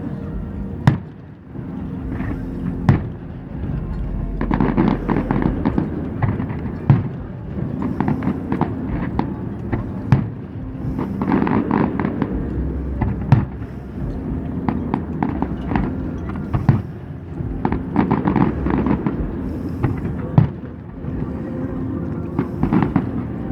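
Fireworks display: a run of sharp bangs from bursting shells, with dense crackling between them.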